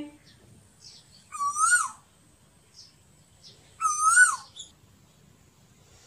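Asian koel calling twice, about two and a half seconds apart. Each call is a short hooting note that rises and then drops away at its end.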